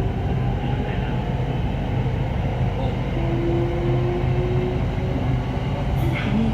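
Hitachi electric commuter train running: a steady rumble with a faint steady whine, and a short click near the end.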